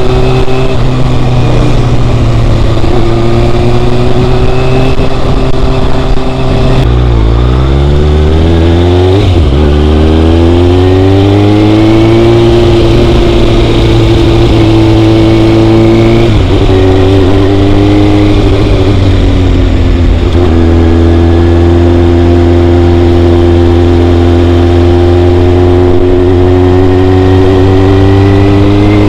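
Motorcycle engine running while riding. Its pitch drops and swoops about a quarter of the way through, then climbs as the bike accelerates, with short dips in pitch a little past the middle.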